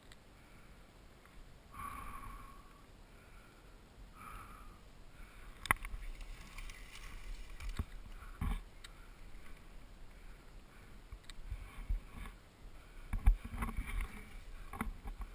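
Mountain bike rolling down a dirt trail: the tyres hiss over the ground and the bike rattles and knocks over bumps, with a few heavier thumps near the end.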